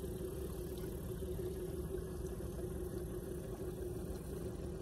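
Boat motor idling with a steady, even drone.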